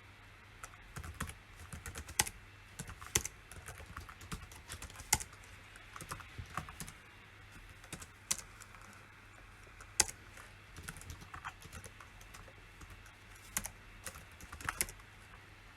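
Typing on a computer keyboard: irregular bursts of keystrokes with short pauses between them, and a few sharper, louder strikes among them. It starts about half a second in and stops shortly before the end.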